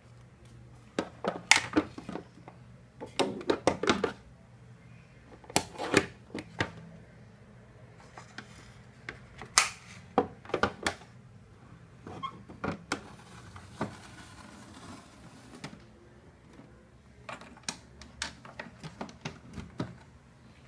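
Hard plastic toy pieces being handled: irregular clusters of clicks, taps and clatters with a brief rustle near the middle.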